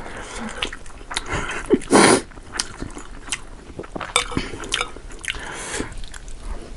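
Close-miked eating: a person biting and chewing, with irregular crisp crunches and mouth clicks and one louder burst about two seconds in.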